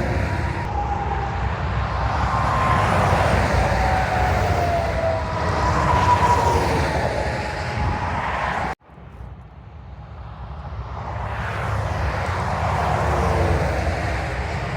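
Tractor-trailers passing on the interstate: steady tyre and engine noise with faint falling tones as they go by. The noise cuts off suddenly about nine seconds in, then builds again as another truck approaches.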